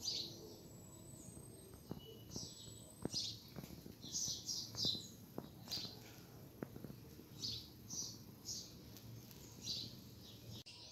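Small birds chirping: short high chirps in scattered little groups, faint, with a few light clicks between them.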